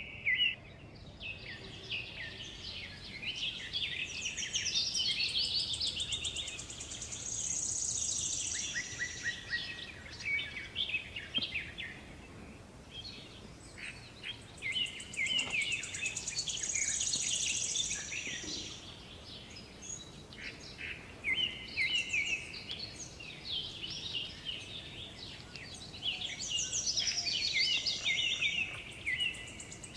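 Several birds chirping and calling at once in busy, overlapping bouts of quick chirps and trills, with short lulls between bouts.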